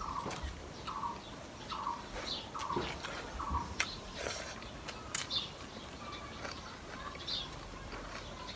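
A bird repeating a short call at one pitch, about one note every 0.7 s, that stops about three and a half seconds in, with a few higher chirps from other birds. Scattered sharp clicks of eating noises are heard over it.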